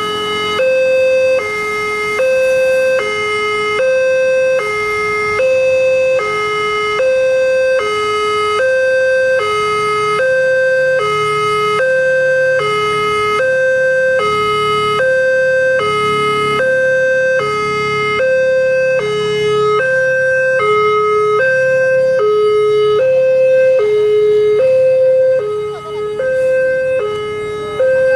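Railway level crossing's electronic warning alarm sounding, a two-tone 'ding-dong' that alternates a higher and a lower tone about every 0.7 s. A low rumble sits underneath in the middle.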